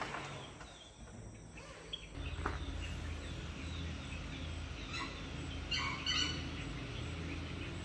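Rural outdoor ambience: insects and birds calling, with a quick run of bird chirps about five to six seconds in, over a low steady hum that sets in about two seconds in.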